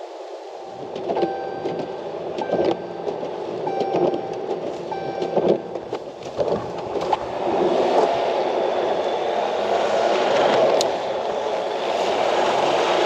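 Pickup truck driving through deep snow, engine running with the tyres working in the snow. A short repeating tone sounds about every second and a half during the first half, and the running noise grows louder in the second half.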